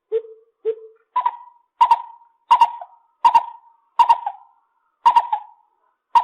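Lesser coucal calling: a series of about nine short hoots, a little over one a second. The first two notes are low and the rest step up to a higher pitch.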